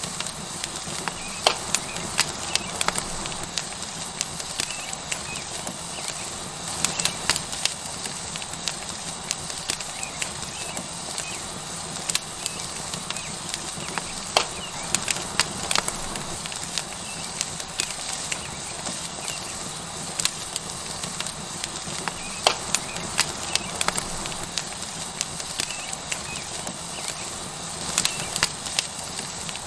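Tomahawk steak sizzling on a hot rock over a wood fire: a steady frying hiss with frequent sharp, irregular pops and crackles.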